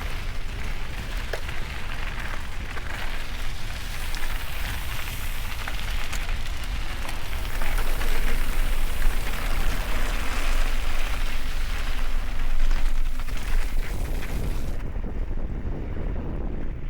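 Wind buffeting the microphone over the steady rushing noise of a mountain bike riding a wet trail, with a heavy low rumble; the high hiss drops away near the end.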